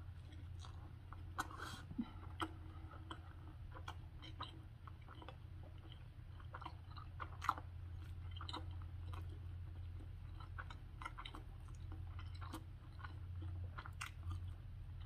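A person chewing a bite of chili-topped beef sausage hot dog and chili cheese fries close to the microphone, with scattered small wet mouth clicks. A steady low hum sits underneath.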